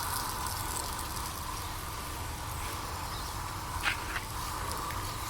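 Garden hose spray nozzle giving plants a steady, even spray of water, with two brief higher sounds about four seconds in.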